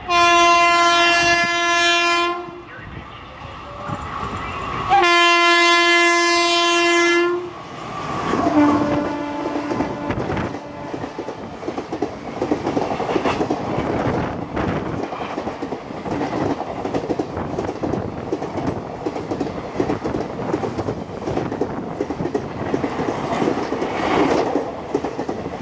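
Indian Railways WAP4 electric locomotive sounding its horn in two long blasts as the express approaches, then a shorter, lower blast. Its passenger coaches then rush past at speed, wheels clicking over the rail joints in a steady clickety-clack.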